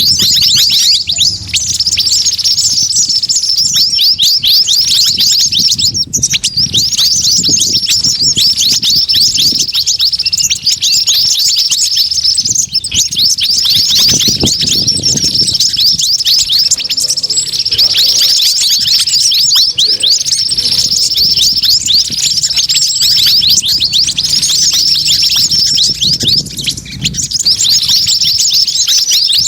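Bird-lure recording of a noisy mixed flock of small songbirds: white-eyes and brown-throated sunbirds chirping and twittering together in a dense, continuous chorus of rapid high calls.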